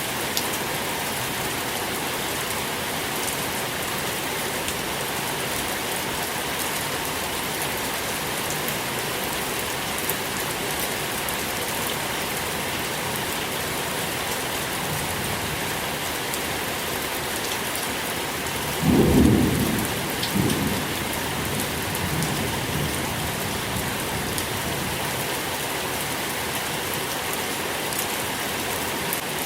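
Steady rain falling, an even hiss, with a low roll of thunder that builds from about halfway, peaks sharply about two-thirds of the way in and fades over a few seconds.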